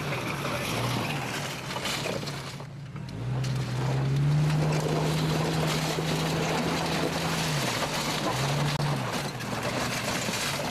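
1987 Jeep Cherokee engine revving: the pitch climbs about three seconds in, holds for several seconds, drops back, then gives one short second rev near the end, over a steady rushing noise.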